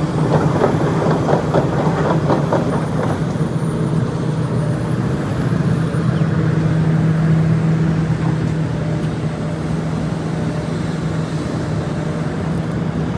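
A vehicle engine running steadily with a low hum, with some rattling noise in the first few seconds.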